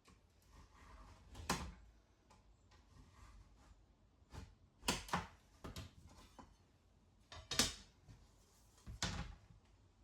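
Irregular knocks and clunks, about six in all, spaced a second or more apart, as a floor plank is fitted and pressed into place.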